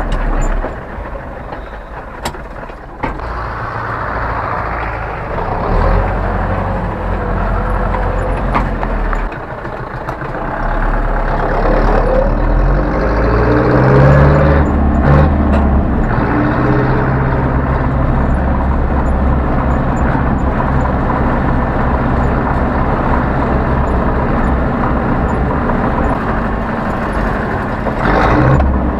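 Zetor 7011 tractor's four-cylinder diesel engine running, getting louder about ten seconds in with its pitch rising as it speeds up.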